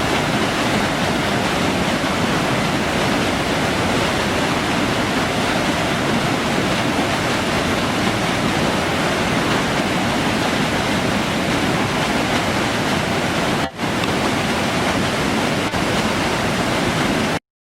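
Waterfall's water rushing in a steady, dense, unbroken roar, with a brief dip about three-quarters of the way through; it cuts off abruptly just before the end.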